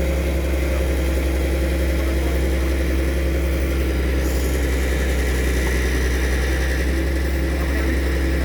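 Excavator's diesel engine idling steadily, a low, even hum.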